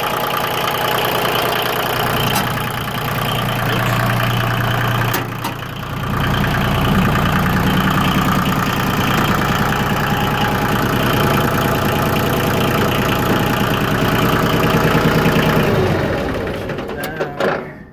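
Yanmar YM2310's three-cylinder diesel engine running, louder and steady from about six seconds in, then shut off near the end and winding down to a stop.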